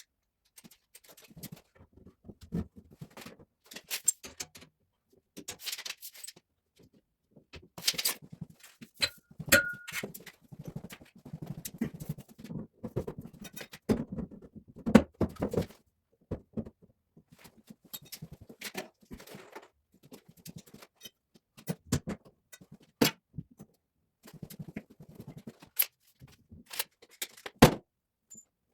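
Scattered knocks, clicks and clatters of hand work on plumbing, with rustling handling noise between them and a brief squeak about ten seconds in.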